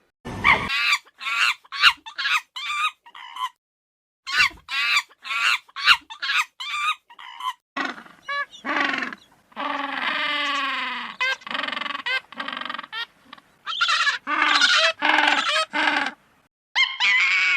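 Poultry calling: runs of short, quick calls, then a denser stretch of longer drawn-out calls in the middle, with two brief dead-silent breaks.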